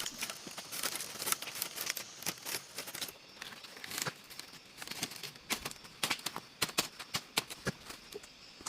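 Dry leaves and twigs crackling and snapping in irregular bursts of small clicks.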